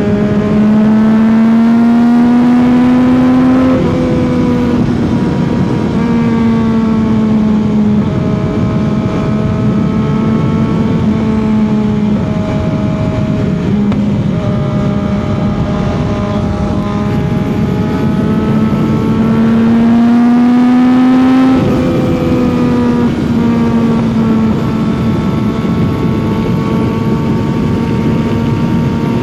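CFMOTO 675's inline-three engine and exhaust at highway speed. It pulls up in revs twice, in the first few seconds and again about twenty seconds in, and each time the pitch drops abruptly at an upshift before it settles into a steady cruise, under a steady rush of wind noise.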